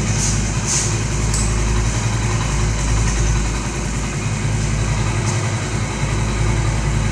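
Honda Pridor 100cc single-cylinder four-stroke motorcycle engine idling steadily, with a few sharp clicks over the hum. The owner calls it strange noise from a nearly new engine and blames the clutch plate.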